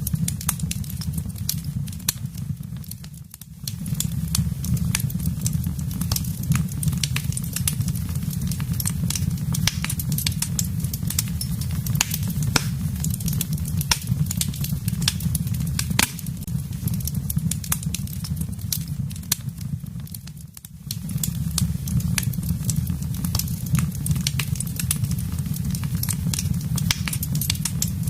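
Wood fire burning in a fireplace: frequent sharp crackles and pops over a steady low rumble of flames. The sound dips briefly about three seconds in and again around twenty seconds in.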